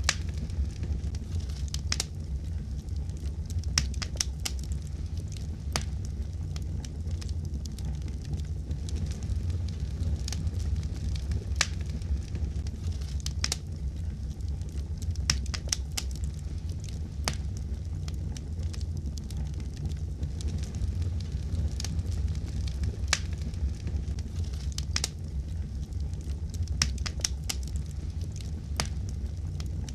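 Fireplace fire crackling: irregular sharp pops and snaps scattered over a steady low rumble of flames.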